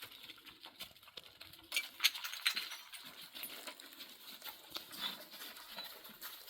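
Irregular rustling and crinkling with many small clicks.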